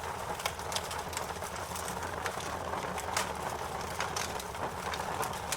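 Wood fire crackling: frequent, irregular sharp pops and snaps over a steady hiss of burning.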